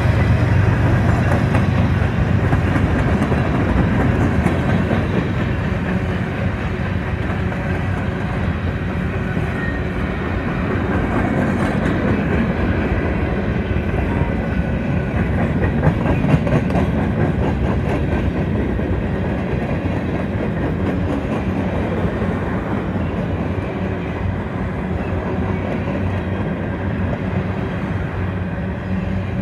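Freight train cars (boxcars and centerbeam flatcars) rolling past close by: a steady rumble of steel wheels on rail with a clickety-clack over the rail joints. The low diesel sound of a mid-train locomotive fades over the first few seconds.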